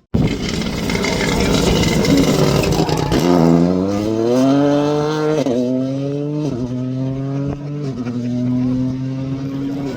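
Rally car engine accelerating hard: first noisy engine and road sound, then the engine's pitch climbs steeply and drops sharply at three quick upshifts about a second apart, settling into a steady pull near the end.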